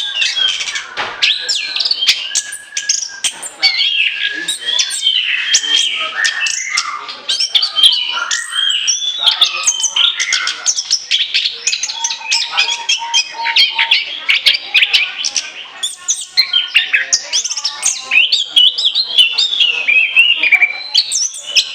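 Orange-headed thrush singing without pause: a fast, varied stream of whistles, trills and chirps.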